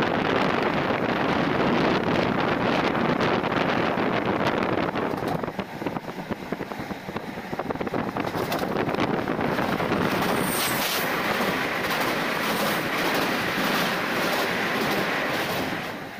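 Express passenger train running on the tracks: a steady rumble and rattle from the moving coach, easing briefly about five seconds in, with a short high squeal about ten seconds in.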